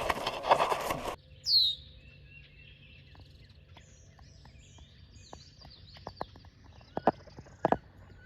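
Birds chirping with short, high, falling calls against a quiet background. A loud noise fills the first second and cuts off suddenly, and a few faint knocks come near the end.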